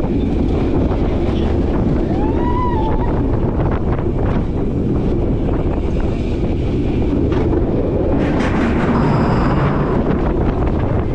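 Roller coaster ride on a multi-launch steel coaster: steady wind blasting over the microphone over the rumble of the train running along the track, with a short rising-and-falling tone about two seconds in.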